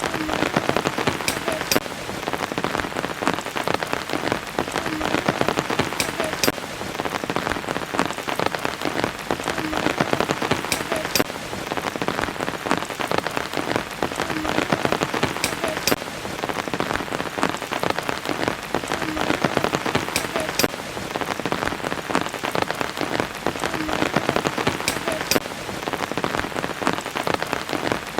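Steady rain pattering on a surface as a dense patter of drops, with a few sharper drip sounds that recur about every five seconds.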